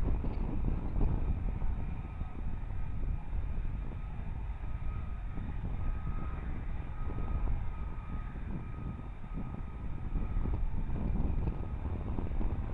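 An F-35B's Pratt & Whitney F135 jet engine running: a steady low rumble with a faint constant whine above it.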